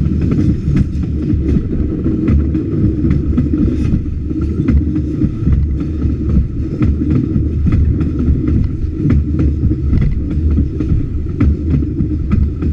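White Pass and Yukon narrow-gauge passenger coaches rolling past close to the track. A steady low rumble, with many sharp clicks and clanks of the wheels going over the rail joints.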